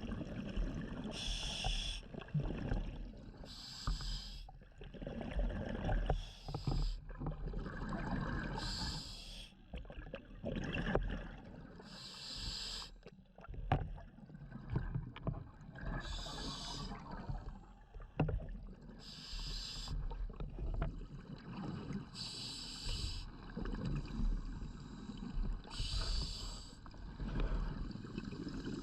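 Scuba diver breathing through a regulator underwater: a short hiss with each inhale, about every three seconds, each followed by a longer bubbling exhale.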